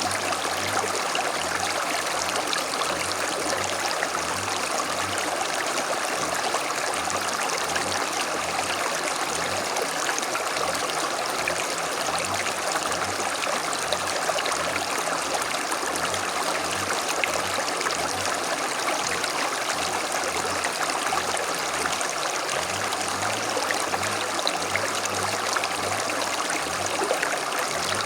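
A small creek flowing and burbling steadily over stones, a continuous rushing-and-trickling water sound.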